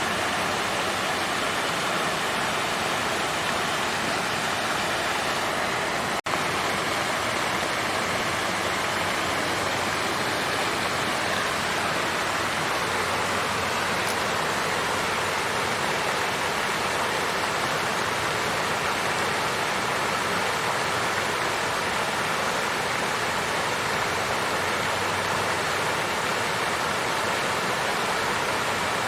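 Water fountain splashing and flowing in a steady, even rush, with a split-second dip in the sound about six seconds in.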